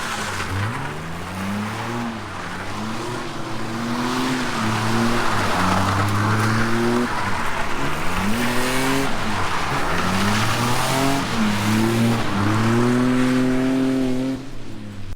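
A drift car's engine revving, its pitch climbing and dropping again and again as the throttle is worked. From about four seconds in, a hiss of tyres squealing and skidding joins it. The sound cuts off abruptly at the end.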